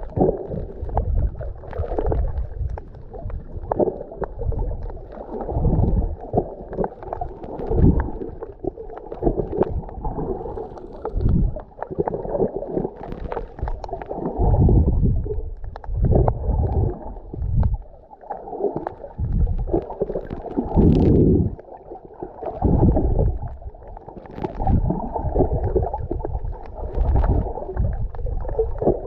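Mediterranean sea water sloshing and gurgling, heard muffled and low, with irregular louder surges every second or two.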